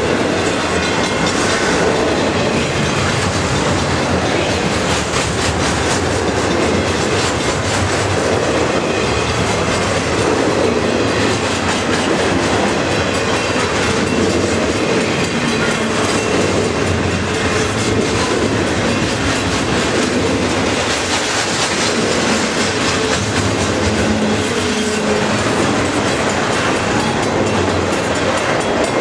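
Double-stack intermodal container cars of a long freight train rolling past: a loud, steady rumble of steel wheels on rail, with a continuous run of wheel clicks over the joints.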